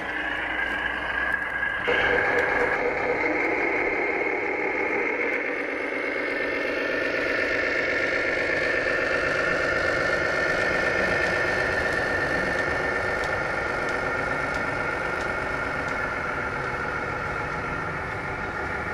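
Radio-controlled model trucks running with a steady, engine-like sound, which changes abruptly about two seconds in and then holds steady.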